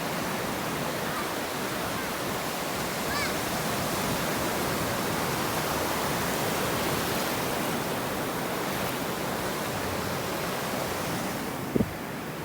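Ocean surf washing on a beach: a steady, even rush of waves.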